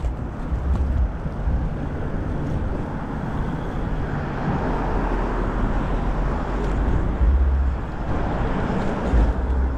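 Wind rushing and buffeting on the microphone with tyre and street noise while riding an e-bike, a steady rush with gusts of deep rumble about a second in, around seven seconds and near the end.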